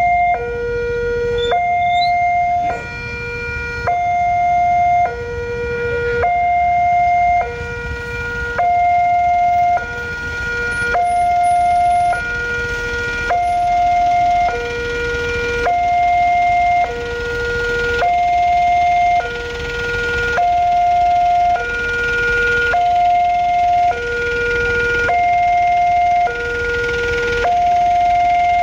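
Railway level-crossing warning signal sounding a steady two-tone alarm: a higher and a lower electronic tone, each held about a second, alternating back and forth, warning that a train is approaching.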